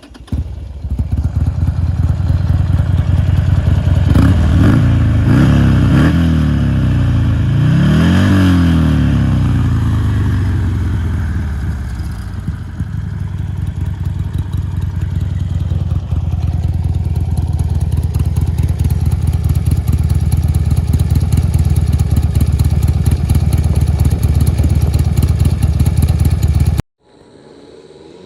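Buell XB9SX's air-cooled V-twin running with a lumpy idle, blipped up in revs and back down a couple of times near the start, then settling back to idle. It cuts off suddenly near the end.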